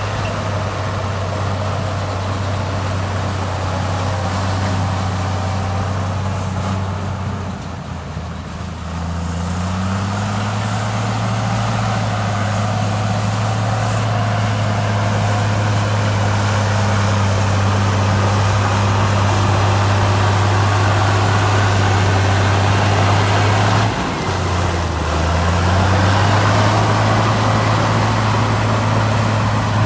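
Heavy construction machine's diesel engine running steadily. Its pitch and loudness sag twice, about a third of the way in and again near the end, each time picking back up after a second or two as the engine takes up load.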